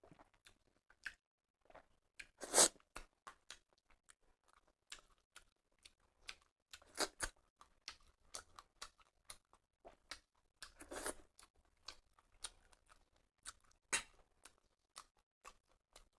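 Close-up eating sounds of a person chewing rice, dal and dry fish curry: soft wet mouth clicks and chewing, with three louder crunchy bursts about two and a half, seven and eleven seconds in.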